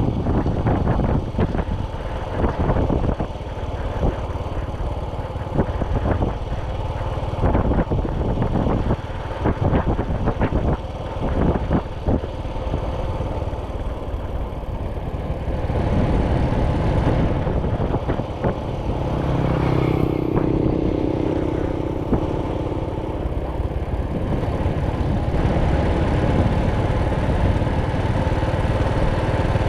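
Motorcycle engine running at road speed, with heavy wind and road noise and rough jolts from an uneven road. About two-thirds of the way through, a louder lower engine hum joins in for a few seconds.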